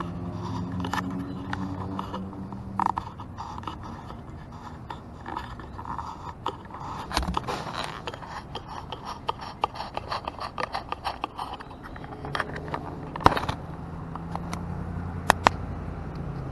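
Bicycle clicking, rattling and scraping as it coasts and is brought to a stop, with a motor vehicle's engine running nearby, loudest near the start and again over the last few seconds.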